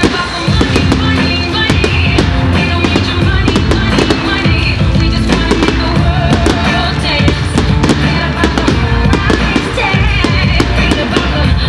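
Fireworks going off, many sharp bangs and crackles in quick succession, over loud music.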